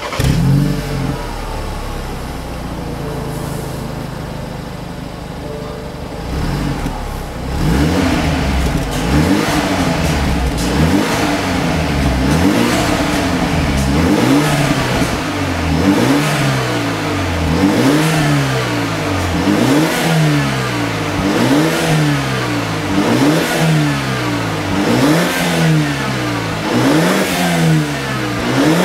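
BMW 420i's turbocharged 2.0-litre four-cylinder heard through an ARQRAY stainless steel aftermarket exhaust, idling for about seven seconds and then revved repeatedly in quick throttle blips, each rise and fall taking about two seconds.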